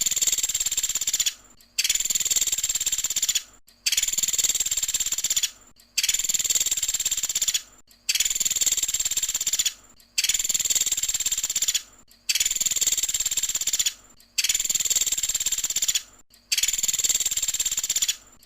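Woodpecker (the 'pelatuk sampit' of Indonesian bird keepers) giving long, rapid, high-pitched rattling calls, each lasting nearly two seconds. About nine follow one another at an even pace, with short gaps between them.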